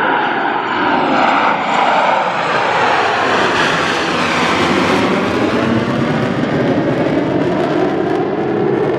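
Twin-engine jet noise from Blue Angels F/A-18 Super Hornets flying past: a loud, steady rush whose tone sweeps downward and back up as the jets pass.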